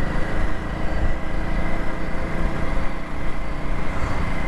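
Small commuter motorcycle engine running steadily as the bike is ridden along a road.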